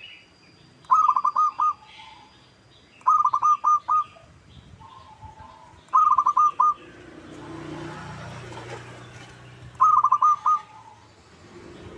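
Zebra dove (perkutut) singing: four short phrases of quick cooing notes, each under a second long and a few seconds apart. A low rumble swells up and dies away between the third and fourth phrases.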